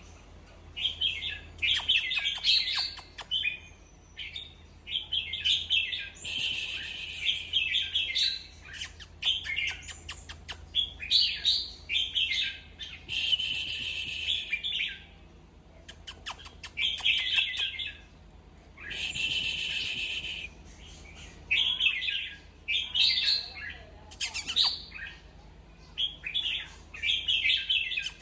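Red-whiskered bulbul singing: short, bright warbled phrases repeated every second or two with brief pauses, with a few short bursts of hiss and clicks between some phrases.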